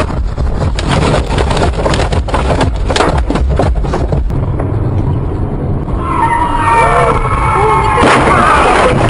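Motor vehicle on the road with a steady low rumble and a rapid string of sharp knocks through the first four seconds. From about six seconds in, a raised voice wails over the vehicle noise.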